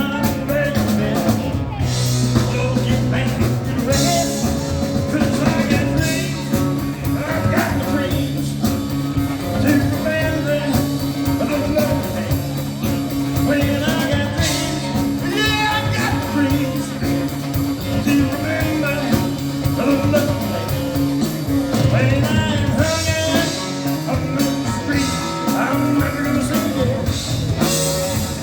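Live rock and roll band playing a song, with a singer's vocals over guitar, bass and drums.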